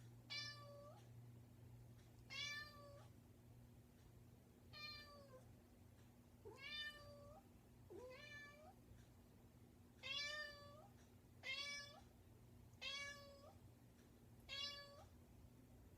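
Tabby cat meowing over and over, about nine short meows, one every second and a half to two seconds, each rising then levelling off. It is a persistent cat calling at a closed bedroom door to be let in.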